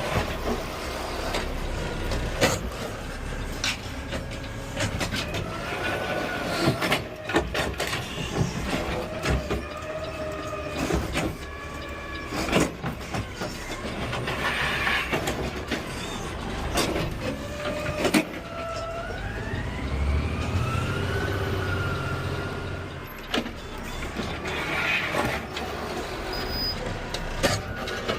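Automated side-loader garbage truck (Peterbilt 520 with an Amrep body) at work: the engine runs low and steady under repeated clanks and bangs, with whines that glide in pitch, the longest rising steadily about two-thirds of the way through.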